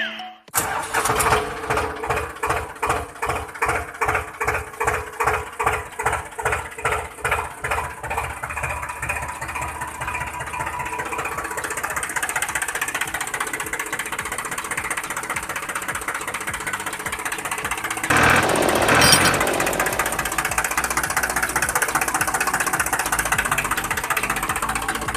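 A small engine starts and runs. At first it gives slow, separate beats about twice a second, then it settles into a faster, even run. It surges louder for a couple of seconds about 18 seconds in.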